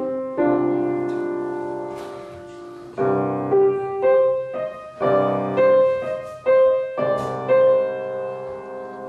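Piano played live: a chord struck and left to ring, fading over about two and a half seconds, then a run of notes and chords struck about twice a second. It is the opening of a piece played from memory.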